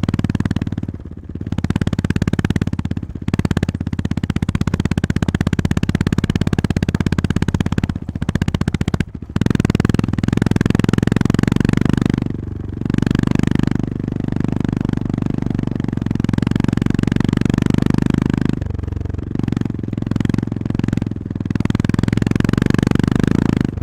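Honda GB350S single-cylinder four-stroke engine pulling the motorcycle along a winding road. Its low, even note drops away briefly several times as the throttle is rolled off and picks up again, with a steady rush of wind over it.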